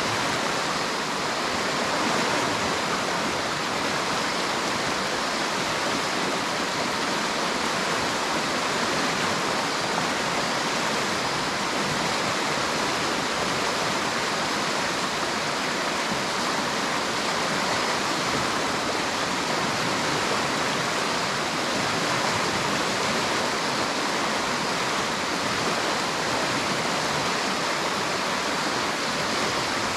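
River water rushing over rocks, a steady unbroken splash and hiss.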